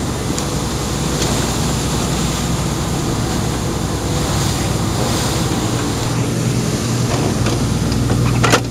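Steady low machinery hum under a wash of sea and wind noise, with a few sharp knocks near the end.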